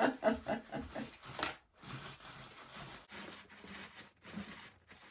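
Shredded Easter basket grass being handled and pressed into place, an uneven crinkling and rustling.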